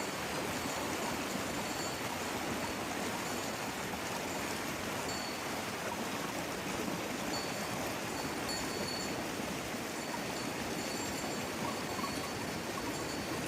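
Steady rain ambience: an even, unbroken hiss of falling water, with faint short high tones now and then.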